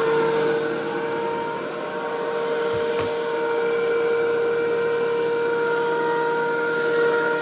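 Electric thickness planer running at full speed, a steady high motor whine over cutter-head noise.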